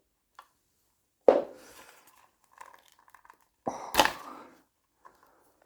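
Hand handling of a small plastic switch on a motorcycle wiring loom being pushed into its mounting: a sharp knock about a second in and a loud sharp click near four seconds, with faint crinkling and rustling between.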